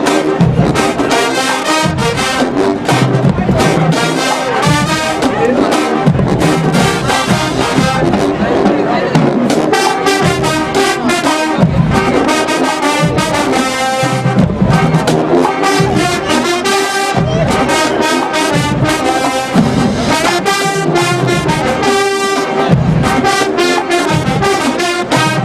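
Marching band playing loudly, brass (trombones and trumpets) carrying the tune over a steady drumline beat.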